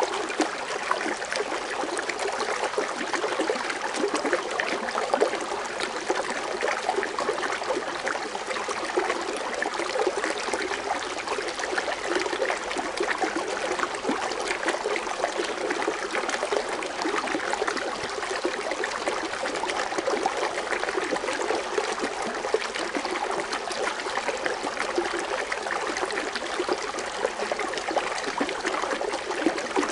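Foaming water fountain splashing and trickling steadily, an even rush of falling water that never pauses.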